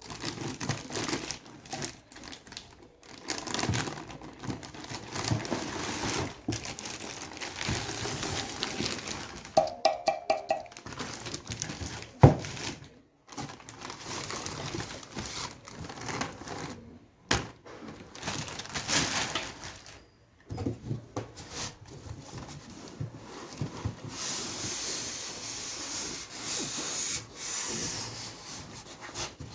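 Cardboard box and plastic packaging being handled and opened: irregular rubbing, scraping, tearing and crinkling. There is a brief squeak about ten seconds in, a single sharp knock a couple of seconds later, and louder rustling near the end.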